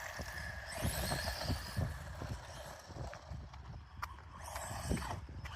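Radio-controlled toy car driving over rough ground: its small electric motor whines in short spurts, with irregular knocks and rattles as it bumps along.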